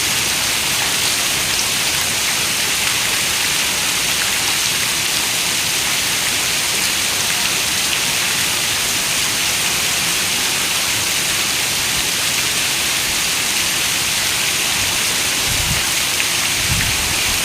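Steady rain falling on a window, an even, dense hiss, with two brief low rumbles near the end.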